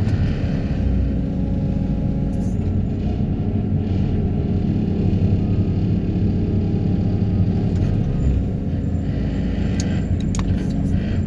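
Excavator carrying a vibro hammer running steadily, a low, even machine rumble with a few faint clicks near the end.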